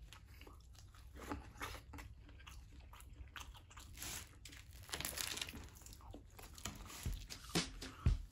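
A person chewing pizza, with wet mouth clicks and scattered crunches, the crunches louder near the end.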